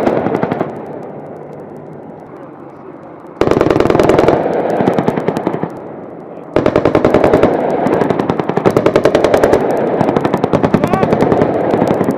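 Machine-gun fire in rapid automatic bursts: a burst dying away right at the start, a short burst about three and a half seconds in, and a long sustained burst from about six and a half seconds on, with echoing in the gaps.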